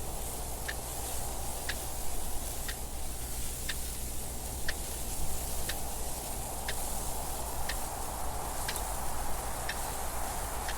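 A clock ticking evenly, about once a second, over a steady rush of wind noise.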